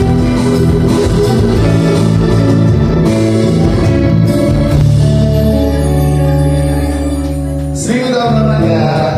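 Live band playing a song, with guitar and singing; a long held note rings through the middle, then the music moves on about eight seconds in.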